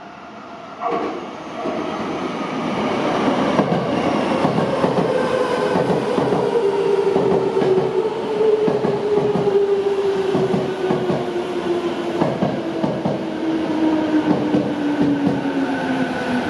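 Electric commuter train running, its motor whine falling slowly and steadily in pitch, with wheels clattering over the rails; it comes in suddenly about a second in.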